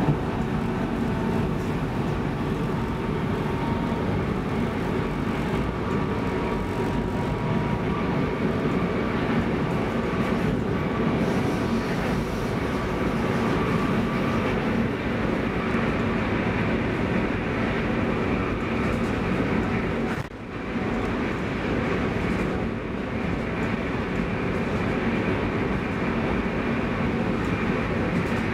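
Running noise of an X10 electric commuter train heard from inside the carriage at speed: a steady rumble of wheels on rails with a faint steady hum. It dips briefly about twenty seconds in.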